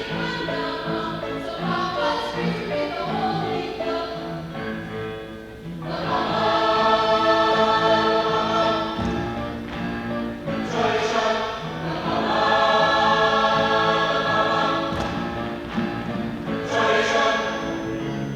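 A chorus singing with instrumental accompaniment, swelling into louder, fuller held chords about six seconds in and again near the middle and end.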